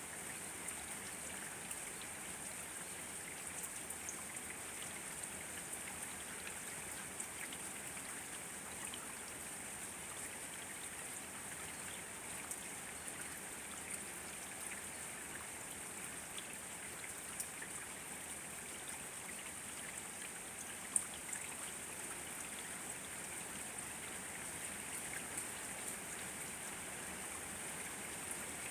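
Steady rain falling, with scattered individual drops pattering on surfaces and one sharper drop about 21 seconds in.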